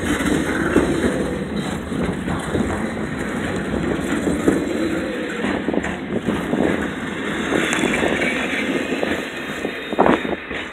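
Container train's well cars rolling past close by, steel wheels clattering on the rails with a steady rumble and many short knocks. A louder knock comes near the end.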